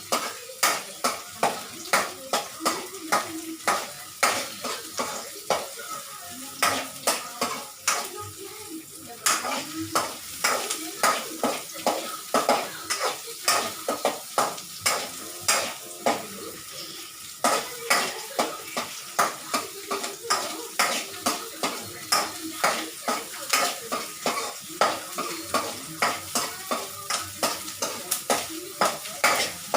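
A spatula stirring and scraping food in a frying pan, striking the pan about twice a second, over steady sizzling oil. The stirring pauses briefly twice. This is onion and garlic being sautéed.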